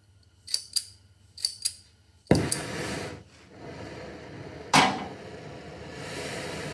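Shop tool work on a steel car frame: four light metallic clicks in two pairs, then a power tool starts abruptly about two seconds in and runs steadily, with one loud metallic bang with a short ring near the five-second mark.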